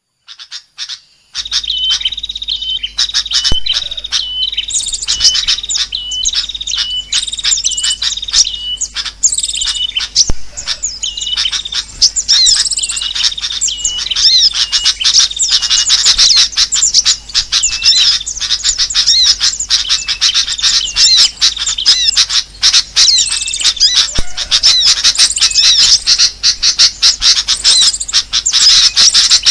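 Bird-lure (suara pikat) recording: a dense mix of many small birds' chirps, whistles and squawks overlapping, meant to draw small birds in. It starts about a second in, with a repeated whistled phrase at first, and there is a steady low hum underneath.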